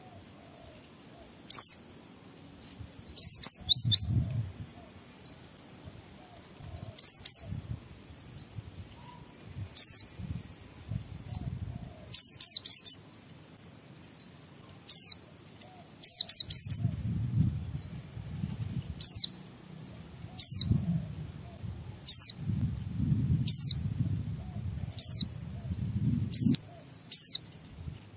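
Pleci (white-eye) singing: quick clusters of short, sharp, high chirps that sweep downward, repeated every second or two. Low muffled bumping sounds underneath, most of all in the second half.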